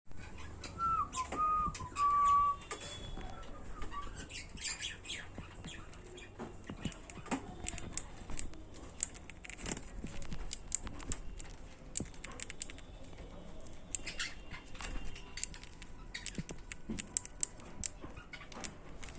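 Pet budgerigars chirping and chattering: a few clear whistled notes in the first couple of seconds, then many short, sharp chirps and clicks.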